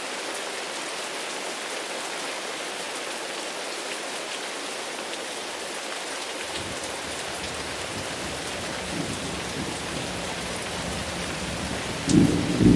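Steady rain falling, with a low thunder rumble building from about halfway through and a loud thunderclap near the end.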